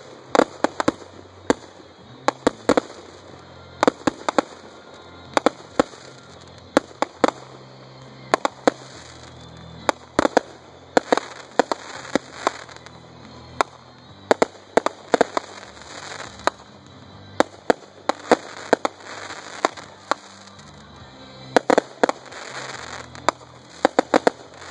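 Aerial fireworks bursting overhead: a long run of sharp bangs, often several in quick succession, with crackling between them.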